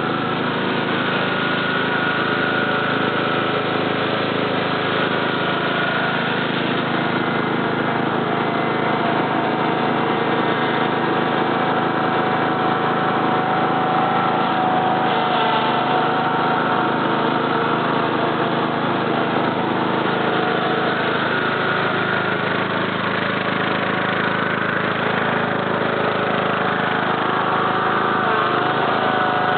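19 HP Kohler engine of a Cub Cadet LT 1042 lawn tractor running steadily, with small shifts in its pitch.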